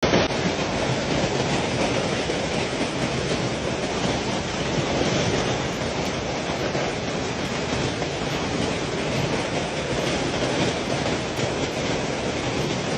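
Storm wind blowing hard: a steady, loud rushing noise with no letup.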